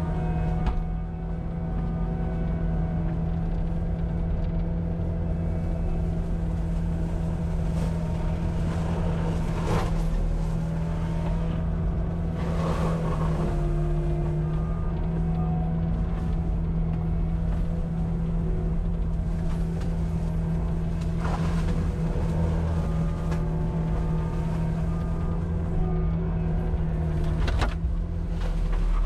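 Cat 259D compact track loader's diesel engine running steadily under load with its forestry mulcher head, a constant drone with occasional short cracks and knocks.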